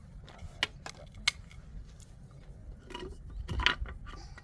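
Several sharp clicks and knocks from objects being handled, with a louder cluster of knocks about three and a half seconds in.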